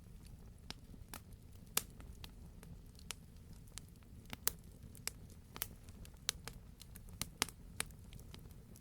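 Wood fire burning with irregular crackles and sharp pops over a steady low rumble, several pops standing out, the loudest about two seconds in and again about four and a half seconds in.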